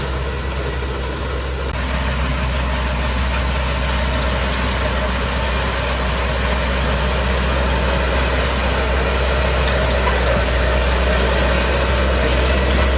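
Heavy earthmoving machinery's diesel engine running steadily with a deep low drone, gradually getting louder.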